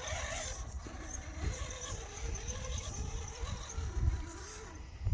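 Electric RC crawler truck's motor whining as it drives, the pitch rising and falling with the throttle, over a low uneven rumble.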